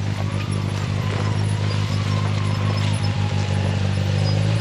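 Polaris RZR Pro R side-by-side engine running steadily at a low, even pitch.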